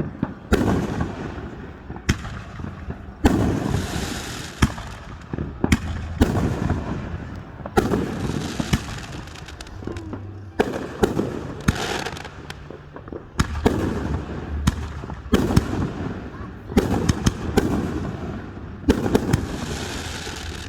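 Aerial fireworks bursting in quick succession, a sharp bang every second or so, each followed by a low rumbling echo.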